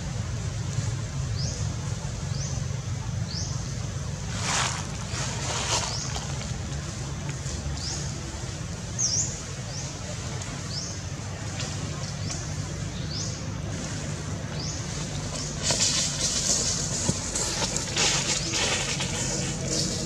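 Outdoor ambience: a bird repeats a short, high, rising chirp about once a second over a steady low hum. Leaves rustle in bursts, about five seconds in and again in the last few seconds.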